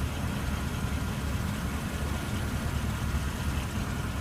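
Porsche Panamera Turbo's twin-turbo V8 idling: a steady low rumble.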